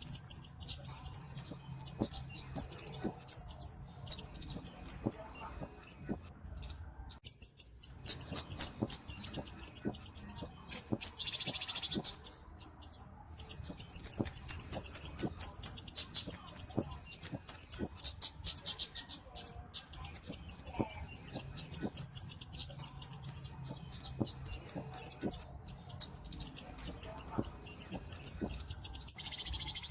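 Kemade flowerpecker (cabe-cabean) singing: long runs of rapid, very high-pitched ticking notes, many a second, broken by short pauses. There is a brief hissing burst about eleven seconds in.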